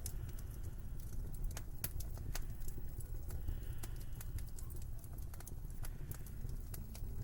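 Wood fire crackling in a fireplace, sharp irregular pops and snaps, over a steady low rumble of winter wind.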